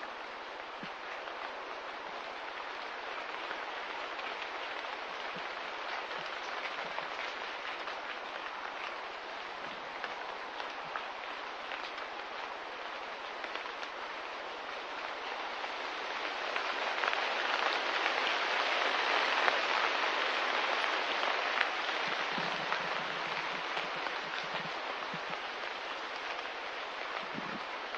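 Steady rain falling, an even hiss with faint patter in it, growing louder about two-thirds of the way through and then easing back.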